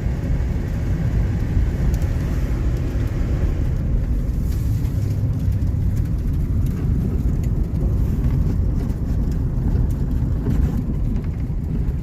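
Steady low rumble of a vehicle driving along a snow-covered road, engine and tyre noise with no change in pace.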